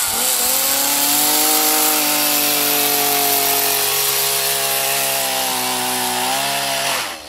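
Chainsaw running at full throttle, cutting through a giant marrow. The engine note drops slowly as it cuts, then stops abruptly near the end.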